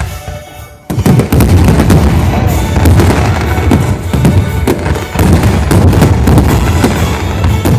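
Fireworks display: a dense, continuous barrage of bursts and crackling starts suddenly about a second in, with music playing underneath.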